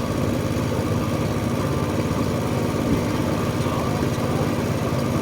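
Boat engine running steadily at a constant speed, a continuous low mechanical drone.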